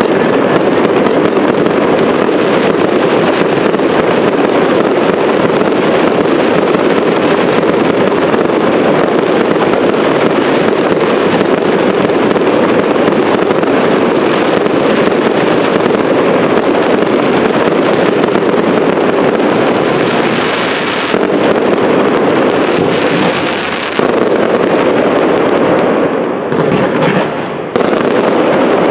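Professional fireworks display: a dense, continuous barrage of rapid bangs from shells bursting. It eases briefly near the end before a fresh volley comes in.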